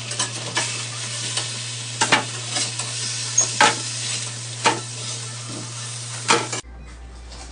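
Chicken pieces sizzling as they fry in a pan, with sharp clicks and scrapes of a utensil stirring and turning them every second or so. About six and a half seconds in the sizzling cuts off, leaving a quieter steady hum.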